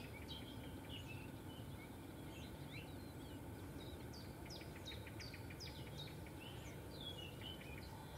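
Small birds singing and chirping, with short down-slurred notes and a quick trill of even notes at about seven a second, over a steady low background rumble.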